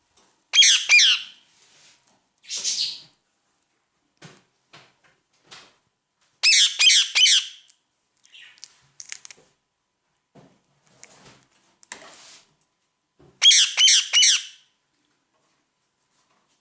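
Ringneck parrot squawking: three loud bursts of four or five rapid shrill calls, about six seconds apart, with a rougher single call after the first and before the last, and soft clicks and chatter in between.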